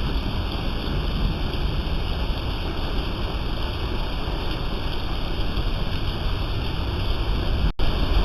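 Steady rain falling: an even hiss with a low rumble underneath. The sound drops out for an instant near the end.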